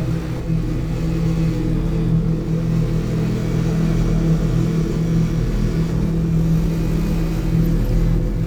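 Dirt bike engine running at a fairly steady speed, loud and continuous.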